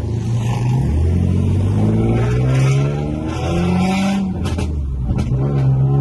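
Infiniti G37's 3.7-litre V6 through an aftermarket exhaust, accelerating hard: its pitch climbs, drops at upshifts, then climbs again. A few sharp pops sound around a shift a little after the middle.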